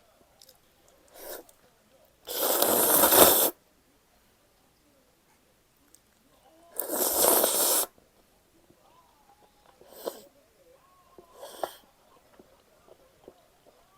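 Two loud slurps of cold buckwheat noodles, each about a second long, with a few fainter slurps and sucking sounds later.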